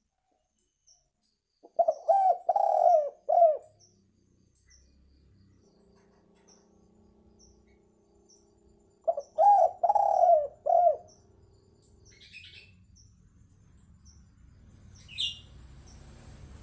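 Spotted dove (tekukur) cooing: two phrases of several low coo notes, each with one drawn-out middle note, about seven seconds apart.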